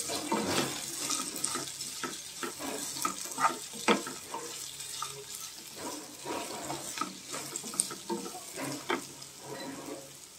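Chopped vegetables, peanuts and curry leaves sizzling in oil in a nonstick kadai while a wooden spatula stirs them, with irregular scrapes and knocks of the spatula against the pan.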